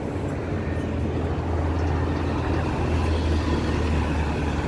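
Road traffic: a vehicle engine running close by, a steady low rumble that grows a little louder about halfway through.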